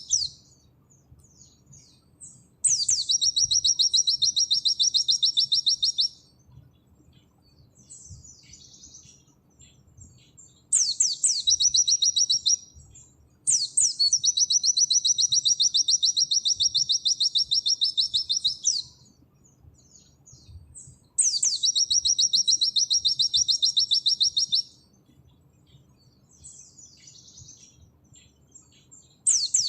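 A pleci (white-eye) singing in its 'nembak' style: loud, rapid, evenly repeated high notes. The song comes in runs of about 1.5 to 5 s, each opening with a quick downward sweep. The runs are separated by a few seconds of softer, scattered twitters. Five runs are heard, the longest about 5 s, and the last one begins near the end.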